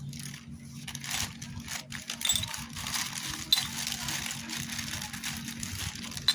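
Small metal engine parts and tools clinking, rattling and scraping as they are handled, with a sharp metallic click about halfway through and another near the end, over a steady low hum.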